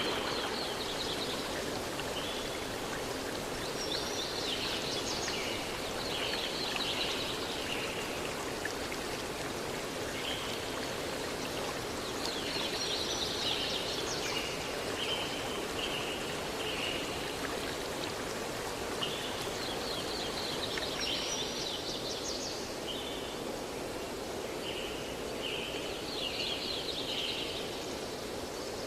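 Steady rushing of a forest river stream, with a songbird singing short bursts of high chirping phrases every few seconds over it.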